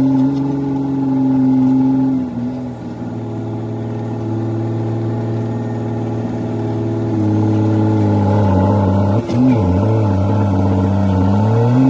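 CAT C13 diesel in a Kenworth W900B dump truck, straight-piped, running under load. Its engine speed drops about two seconds in, then climbs, dips sharply with a gear shift near the end and climbs again.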